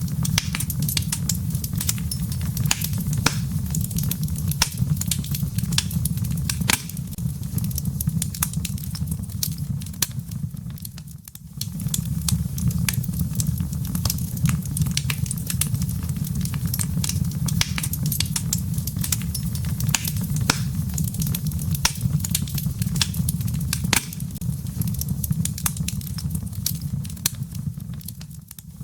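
Wood fire in a fireplace crackling, with frequent sharp pops from the burning logs and embers over a steady low rumble of the flames. It dips briefly about eleven seconds in and again near the end.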